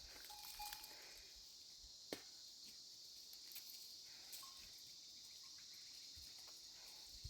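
Faint, steady high-pitched chorus of crickets, with a single faint click about two seconds in.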